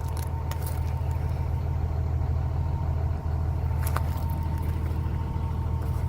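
John Deere 250G excavator's diesel engine running steadily, a constant low drone with a faint high whine over it. A single sharp click about four seconds in.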